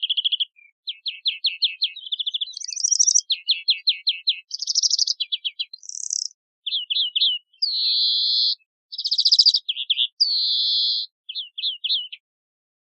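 Greenfinch singing: a varied run of twittering trills and rapid note series, broken by two long, buzzy wheezes about eight and ten seconds in.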